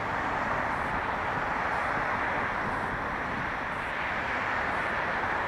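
Steady road traffic noise: an even rushing hiss with no single engine or tone standing out.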